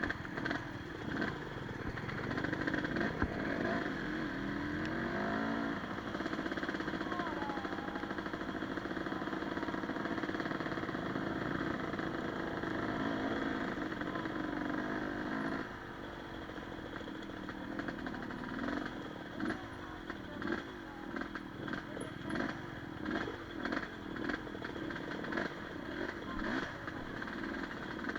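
Enduro motorcycle engine running under load, its revs rising and falling in the first few seconds, then holding steady. From about halfway in, the throttle goes on and off in short pulses, with many clattering knocks.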